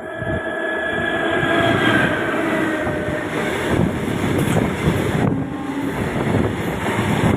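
An Indian Railways train's horn fades out over the first three seconds, giving way to the loud, steady noise of a train running past.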